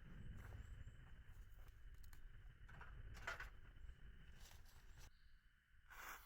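Near silence: a faint low rumble with a few soft clicks and rustles, and a short rustle near the end.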